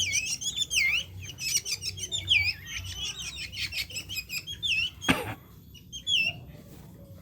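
Drongo calling in a quick series of short chirps that sweep down and back up in pitch, with a single sharp knock about five seconds in, followed by a few more chirps.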